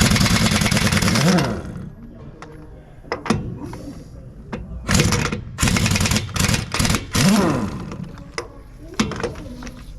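Hand-held power tool run in bursts: one long run at the start, then several short ones about halfway through. The motor pitch rises and falls within each burst.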